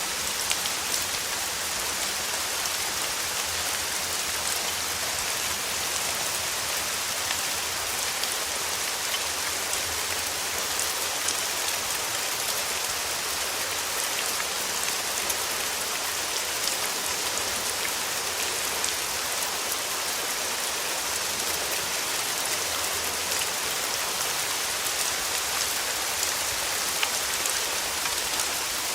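Steady summer rain falling on a surface, an even hiss dotted with small drop ticks.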